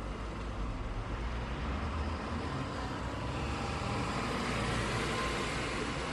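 Road traffic running steadily with a low rumble. A vehicle passes close by, its tyre and engine noise building from about three seconds in and easing off near the end.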